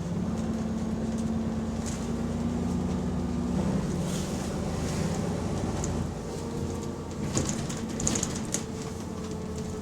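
Bus engine running while under way, heard from inside the bus, which has an exhaust leak. Its steady drone steps down in pitch about three and a half seconds in and eases off about six seconds in. A few sharp rattles and clinks come near the end.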